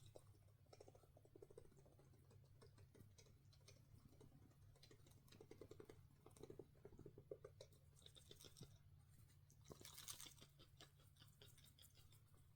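Near silence: room tone with a low steady hum and faint scattered clicks and soft rustles, with a brief louder rustle about ten seconds in.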